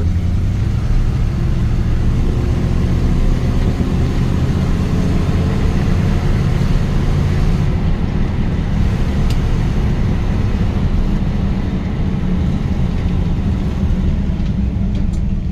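1977 Dodge Adventurer's 440 big-block V8 running while the truck drives, a steady low rumble of engine and road noise.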